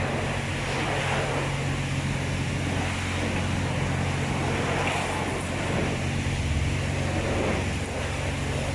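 Water spraying and rushing over a car's body at a car wash, over a steady low motor hum.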